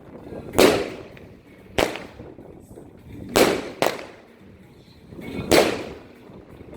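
Firecrackers going off one at a time: five sharp bangs, each with a short echoing tail, two of them close together near the middle.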